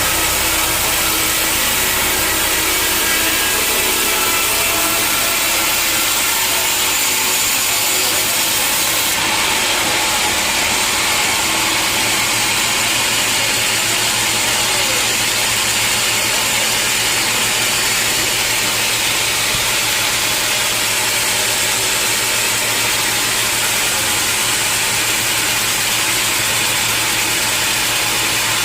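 Sawmill saw cutting through a log, a loud, steady sawing noise over the constant hum of the mill's machinery.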